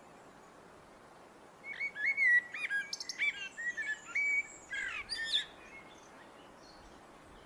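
A blackbird sings one phrase of song lasting about four seconds: a run of clear whistled notes that ends in a quick, high twitter.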